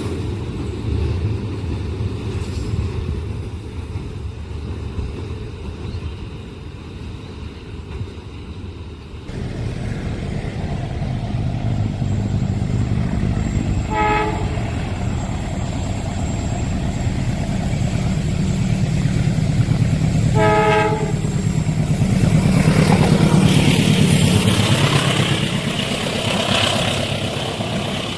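Train running at speed, a steady low rumble of wheels on rails that changes abruptly about nine seconds in. The locomotive horn sounds two short blasts about six seconds apart, and the train is loudest near the end.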